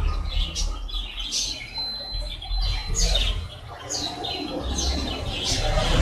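Caged birds calling: a run of short, high chirps that fall in pitch, about one a second, over a low steady hum.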